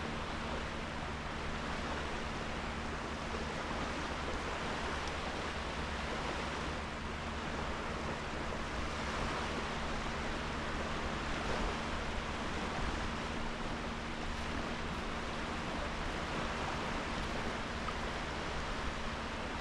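Small sea waves washing onto a sand beach, a steady even hiss of surf with no single loud breaker, over a faint steady low hum.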